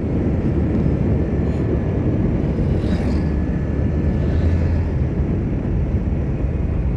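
Motorcycle engine running steadily on the move, mixed with low wind rumble on the microphone.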